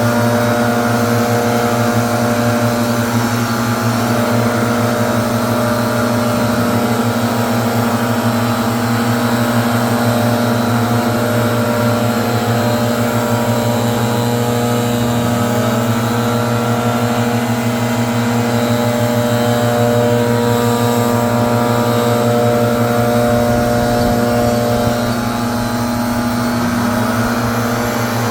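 Leaf blower running steadily, with its pitch dipping briefly a few times.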